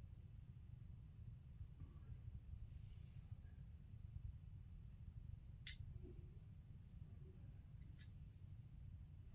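Crickets chirping steadily and faintly over a low rumble. A sharp click about five and a half seconds in and a lighter one near eight seconds.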